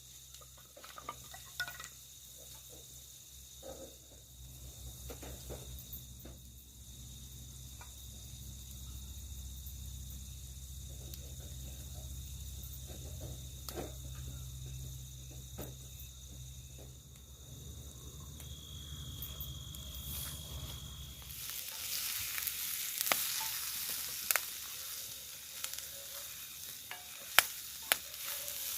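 A low steady rumble, then about three quarters of the way in food goes into a hot pan and starts sizzling loudly, with a few sharp clinks of a utensil.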